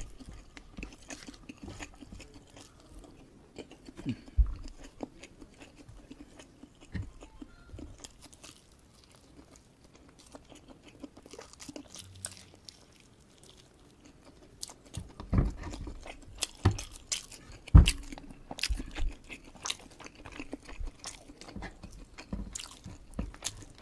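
Close-miked eating sounds: chewing and crunchy bites of fried kampung chicken with rice eaten by hand, as a string of irregular crunches and clicks. They are sparse at first and come thicker and louder in the second half.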